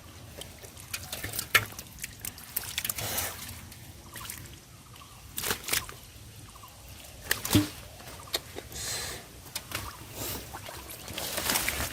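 Hands splashing and sloshing through shallow river water among water hyacinth, in short irregular bursts with sharp splashes scattered through, the loudest about a second and a half in and again past the middle.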